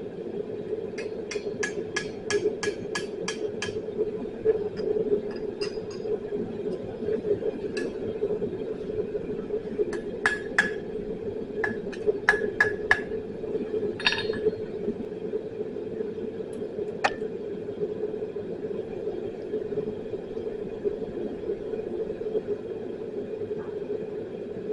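Hammer striking metal on an anvil while forging a steel chain link: a quick run of about eight ringing blows, later another cluster of blows and two single strikes, over a steady background hum.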